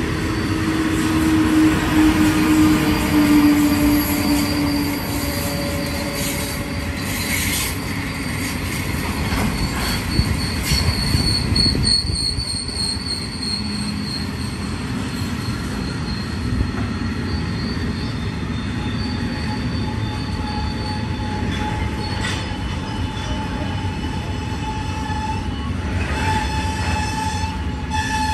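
Freight train rolling past at close range, with its wheels squealing in long, steady tones at several pitches over the continuous rumble of the wagons.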